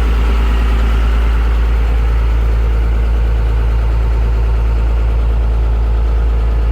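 A boat's engine running steadily, a constant low hum.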